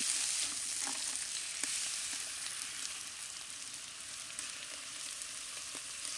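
Sliced onions, chillies and just-added garlic paste frying in hot mustard oil in an iron kadai, sizzling steadily. A few light scrapes of a metal spatula come in the first two seconds.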